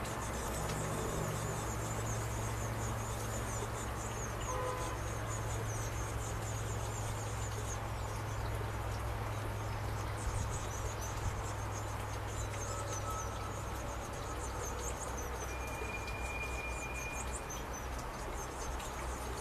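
Blue tit nestlings begging from inside the nestbox: rapid, high-pitched chittering in runs of several seconds, with a short break about eight seconds in. A steady low hum sits underneath.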